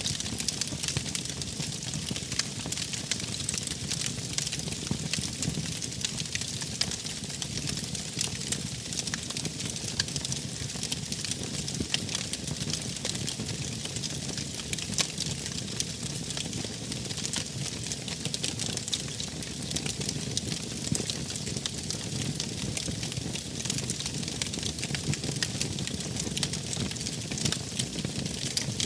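Wood fire crackling: a steady low rush of burning with many small, sharp pops and snaps scattered throughout.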